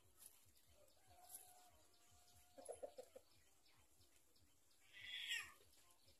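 Faint Society finch calls: a short low clucking run about two and a half seconds in, then a brief, high, raspy call about five seconds in.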